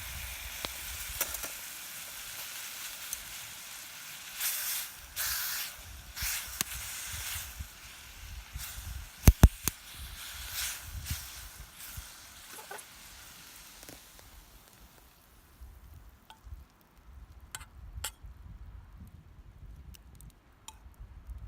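Food sizzling over a campfire: a steady hiss with scattered crackles, two sharp knocks about nine seconds in, and the hiss dying away after about fifteen seconds, leaving only faint crackles.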